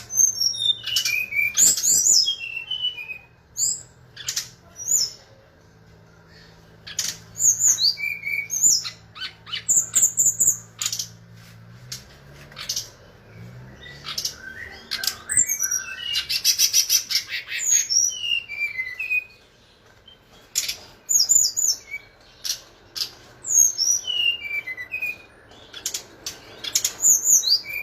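Brown-chested jungle flycatcher (sikatan rimba dada coklat) singing constantly in short, high, downward-sliding phrases. They are broken up by sharp clicks, with a fast buzzing trill about halfway through.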